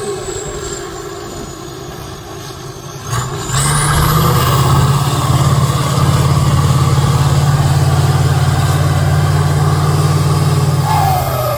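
Competition trial truck's engine: easing off with falling pitch, then about three and a half seconds in revving up hard and holding high revs steadily for about seven seconds before dropping back near the end.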